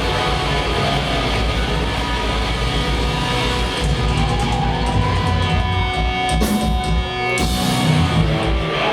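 Punk rock band playing live at full volume, with electric guitar over a dense low end, the song ending right at the close.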